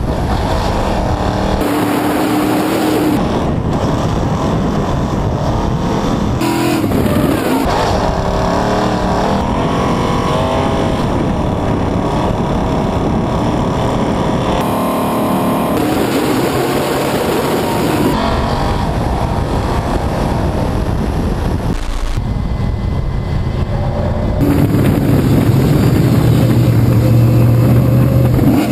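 RTR Mustang drift car's V8 engine at high revs, rising and falling, picked up by a camera mounted on the car, in a run of cut-together clips with abrupt changes at each cut. It grows louder in the last few seconds.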